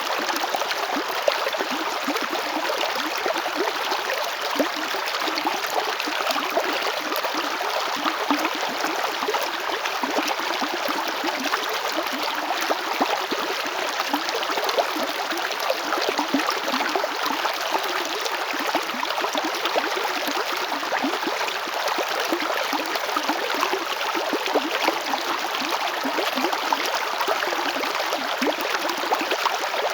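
River water flowing steadily over stones, a continuous rushing with fine gurgles and splashes throughout.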